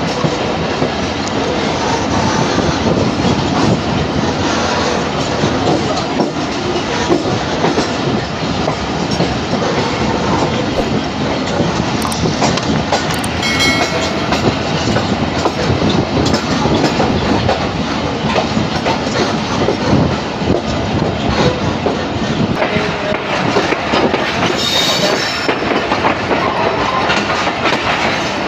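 Passenger train running along the track: wheels clattering over the rail joints with a steady loud rumble.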